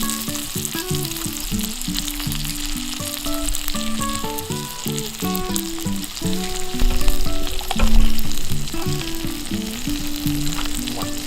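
Hida beef sizzling as it cooks over a campfire, a steady crackling hiss, under background music with a melody and no vocals.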